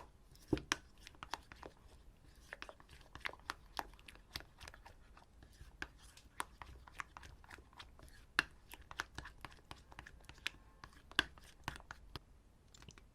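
Slime being worked and stretched, making many small sticky clicks and pops at irregular intervals, a few of them louder than the rest.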